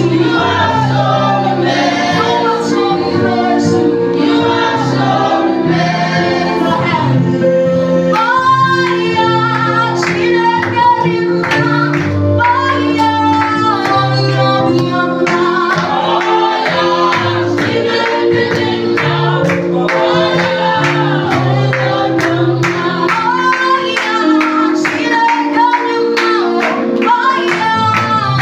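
Gospel praise and worship music: a group of singers with a band, steady bass notes and a regular drum beat.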